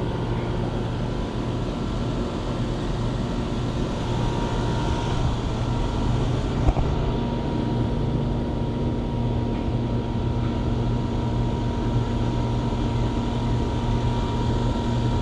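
Steady hum of running HVAC equipment, a motor with a constant low drone and a few fixed higher tones, with a single sharp click about seven seconds in.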